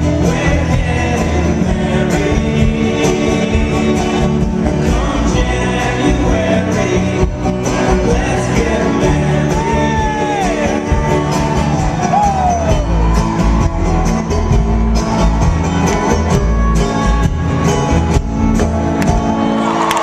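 Live folk-rock band playing and singing in concert, loud and steady.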